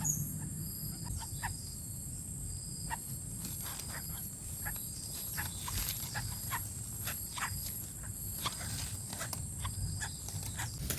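A steady high-pitched chorus of insects with a pulsing beat, a few pulses a second, over scattered close rustles and clicks. A louder click comes right at the end.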